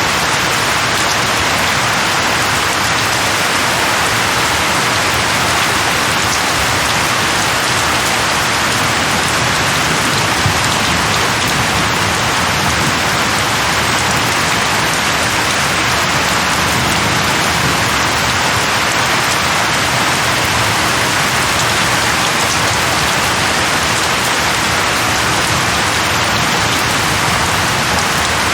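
Steady rain falling on leaves, an even, unbroken hiss.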